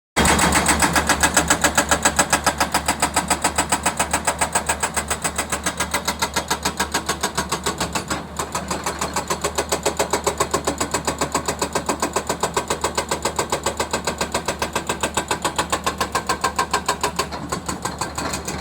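Diesel engine of road-works machinery running steadily, with a rapid even pulse.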